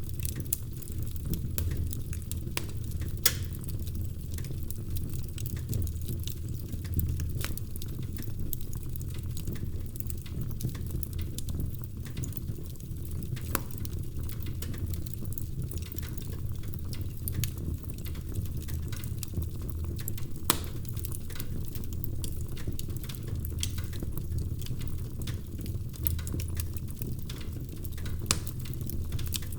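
Wood fire burning in a fireplace: a steady low rumble of flames with irregular sharp crackles and occasional louder pops.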